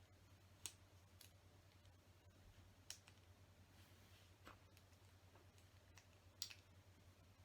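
Faint, scattered clicks of LEGO bricks being handled and pressed together, about five sharp clicks over several seconds, over a low steady hum.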